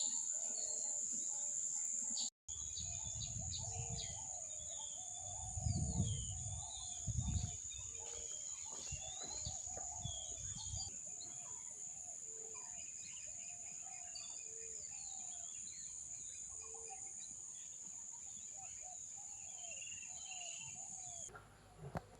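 Many birds chirping and calling over a steady, high-pitched insect drone. There are a couple of low rumbles around six and seven seconds in, and the drone cuts off near the end.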